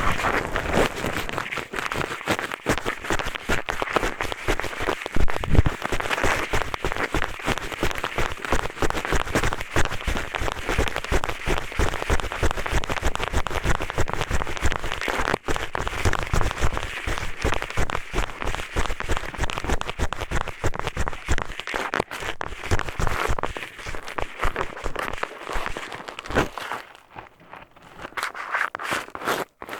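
ASMR ear-cleaning sounds: a pair of eyeglasses scraped and rubbed against a microphone's ear, making dense crackly scratching and rustling, with a brief lull near the end.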